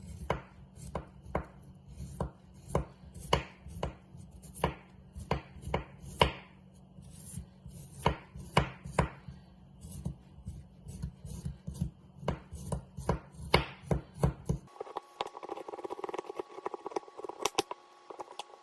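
A knife chopping ginger on a cutting board in irregular strokes, about two a second. The chopping stops about fifteen seconds in, and a different steady hum follows with a few clicks near the end.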